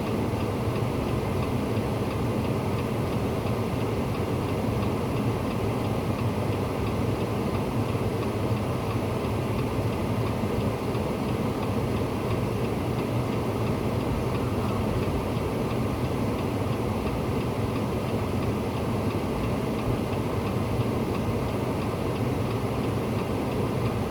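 A vehicle engine running at a steady idle, with a low, even hum that does not change.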